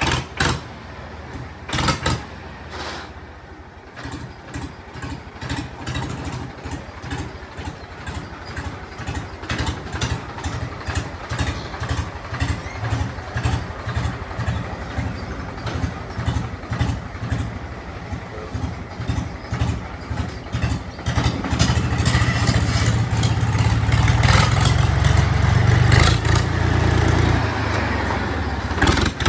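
Powertrac 439 DS tractor's diesel engine running with an even, pulsing beat about twice a second, then revved up about twenty-one seconds in and held at a higher, louder speed.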